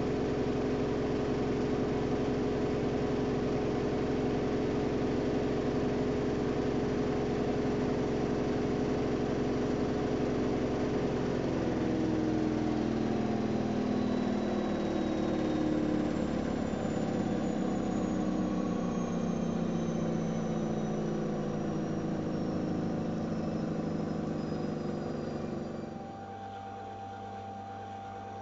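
AEG Öko-Lavamat 693 washing machine running steadily, then winding down from about halfway with a falling whine as the drum slows, and stopping near the end to leave a faint low hum.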